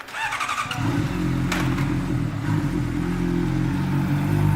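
A motorcycle engine starts up close by about a second in, then runs steadily at idle.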